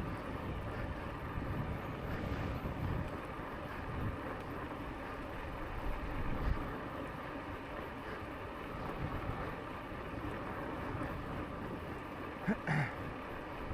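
Wind rushing over the camera microphone with a low, steady rumble as the Lankeleisi X2000 e-bike rolls along the cycle path. A brief higher sound cuts in near the end.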